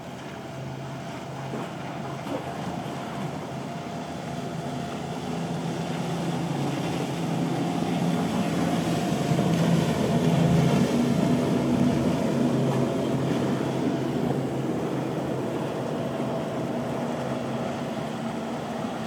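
Motorboat engines running as a boat passes through the inlet: a steady hum that grows louder to a peak about halfway through, then slowly fades.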